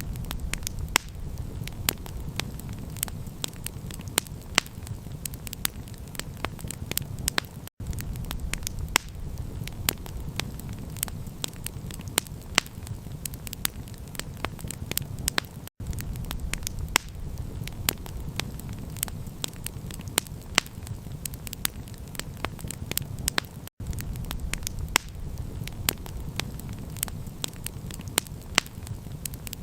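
Wood campfire crackling, with many sharp pops over a steady low rumble. The sound cuts out for an instant roughly every eight seconds.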